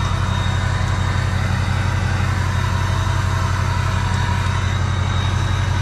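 Truck engine idling steadily, a low even hum with a faint steady high-pitched whine over it.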